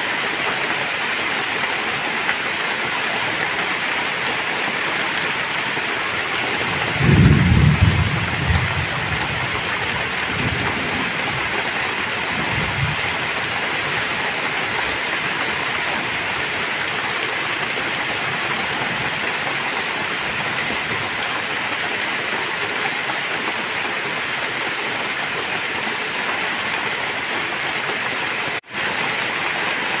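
Heavy rain pouring steadily. About seven seconds in, thunder rumbles low and loud, then rolls on more faintly for several seconds. The sound cuts out for a split second near the end.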